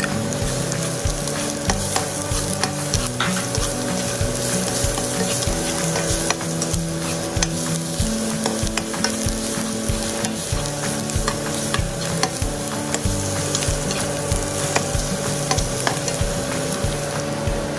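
Shiitake mushrooms, chopped onion and minced garlic sizzling in a hot nonstick frying pan while a slotted spatula stirs them, clicking and scraping against the pan. The sizzle keeps up steadily under the clicks.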